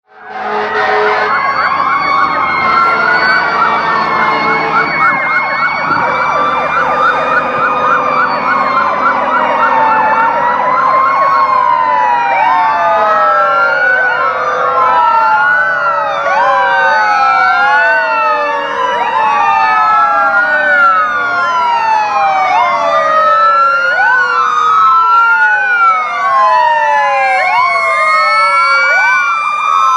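Sirens of several fire trucks and other emergency vehicles sounding at once, their rising and falling wails overlapping into a dense chorus. In the first few seconds one siren runs a fast, rapidly repeating yelp, and an engine hum sits underneath.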